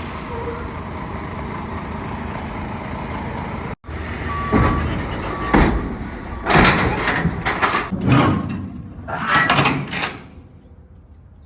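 Vehicle noise at a classic car show: a steady rumble, then, after an abrupt cut, a series of loud, sudden bursts a second or so apart.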